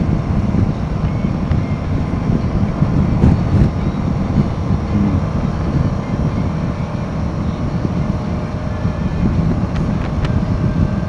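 Royal Enfield Himalayan 450 being ridden, its single-cylinder engine running steadily under way beneath heavy wind rumble on the microphone.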